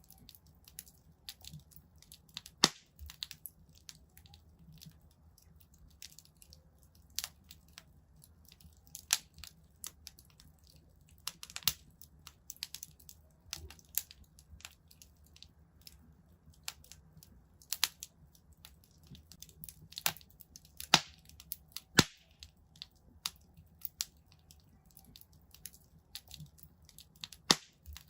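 Wood fire in a fireplace crackling: irregular small ticks and pops, with a handful of louder sharp snaps spread through, over a faint low rumble of the flames.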